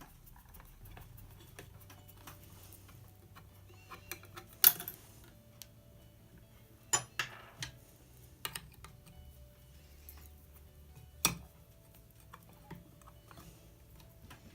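Sparse sharp clicks and knocks of hard metal parts being handled on a vintage cast-iron Singer sewing machine, three of them louder than the rest, with light ticks between.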